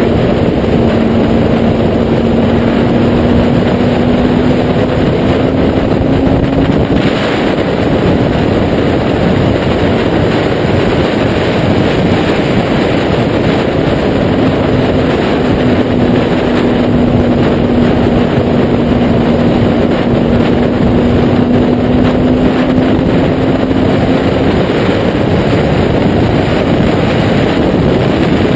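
Kawasaki Z800's inline-four engine through a Taylor Made Firetong aftermarket exhaust, running at a nearly steady pitch, heard under loud wind rush on the microphone while riding. The engine note holds level for several seconds at a time, edging up briefly about seven seconds in.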